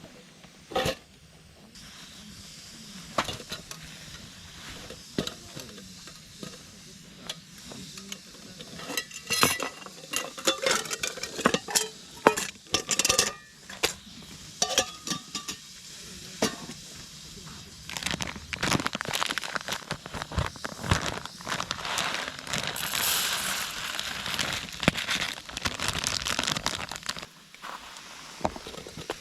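Camp cooking: metal utensils clinking against a pan, then food sizzling, with many sharp clicks.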